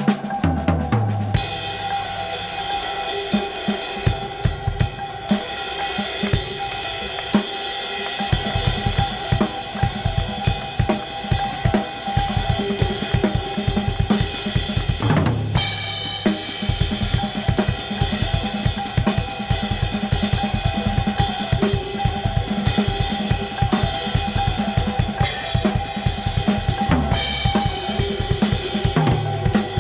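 Drum kit played fast and busy, with snare, bass drum, hi-hat and cymbals, over steady held drone tones from layered soundscapes. A descending tom fill comes near the start, and a rising sweep about halfway.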